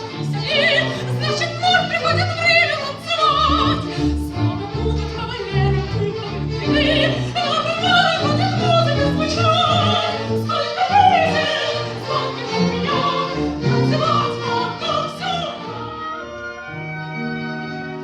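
Operatic singing with strong vibrato over orchestral accompaniment. The voice stops near the end, leaving the instruments holding steady notes.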